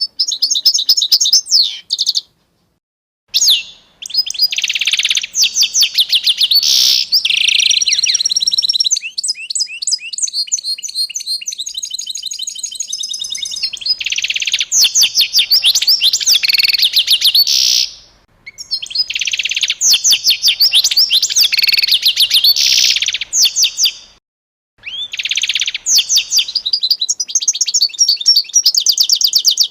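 Songbirds singing in fast trills and rapid runs of chirps, in several bursts with sudden gaps of complete silence between them. From about nine to thirteen seconds in, a higher, faster series of repeated notes takes over.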